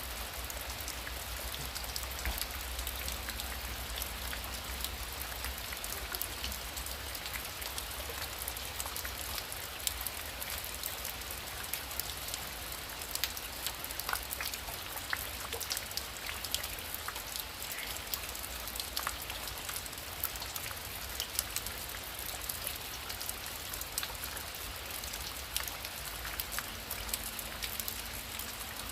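Heavy rain falling steadily: a constant hiss with many individual drops striking sharply and irregularly on top of it.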